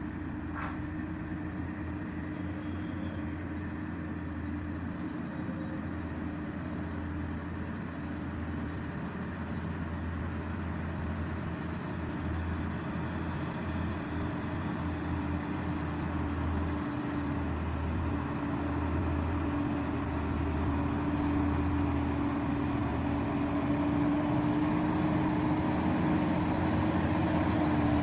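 Diesel engine of a Hino truck running steadily under load on an uphill climb, growing gradually louder as the truck approaches.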